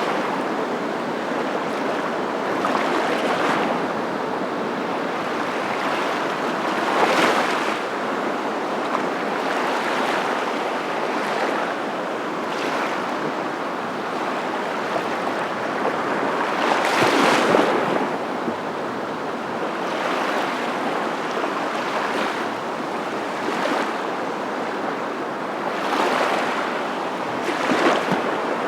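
Surf: a steady rushing of waves, swelling as a wave breaks or washes in every several seconds.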